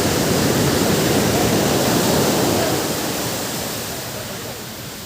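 Ocean surf: a wave breaking, loud for the first few seconds, then fading as it washes out.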